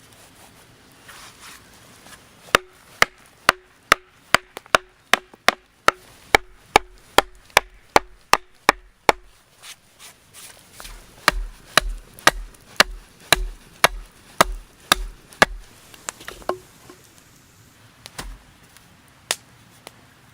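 Wood being chopped with an axe: steady sharp strikes at about two a second in two long runs with a short pause between, then two last single blows near the end.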